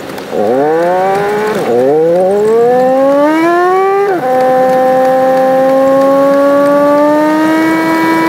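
Toyota's engine accelerating through two upshifts: its high-pitched note climbs, drops sharply at each shift about one and a half and four seconds in, then settles into a steady cruise.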